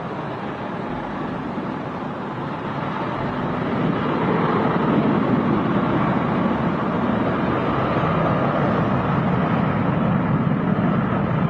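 Airbus A330-243F freighter's Rolls-Royce Trent 700 turbofans at takeoff thrust: a steady jet rumble and rush that grows louder about four seconds in and holds.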